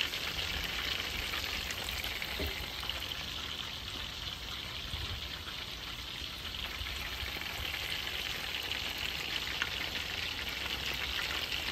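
Batter-coated chicken pieces frying in oil on medium heat, a steady sizzle and crackle.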